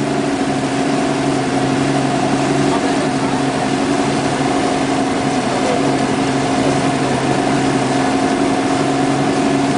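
Motorboat engine running steadily under way, its pitch holding even, over a constant rush of noise.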